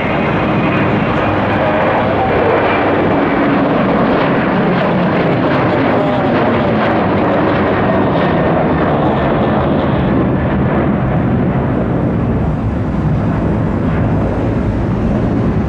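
Boeing 737-800 jet engines at takeoff power as the airliner departs, a loud, steady jet noise whose hiss grows duller in the second half.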